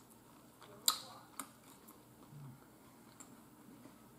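Quiet eating sounds while chewing French fries: a few short, sharp mouth clicks and smacks, the loudest about a second in, then another soon after.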